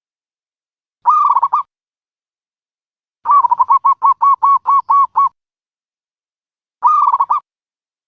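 Recorded dove calls played as a trapping lure: a short burst of quick notes about a second in, a longer run of about ten evenly spaced notes between three and five seconds, and another short burst near the end.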